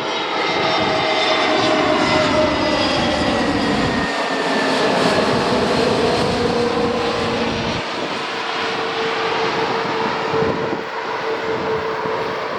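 Airbus A320neo's CFM LEAP-1A jet engines running as the airliner passes low overhead on its landing approach. The engines' whine slides down in pitch as it goes by, then holds a steady tone under a loud rushing noise that eases slightly near the end.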